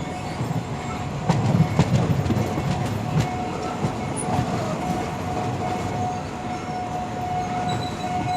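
Passenger train running through a station: the low rumble of the cars with wheels clicking over rail joints, and a thin steady wheel squeal through most of it.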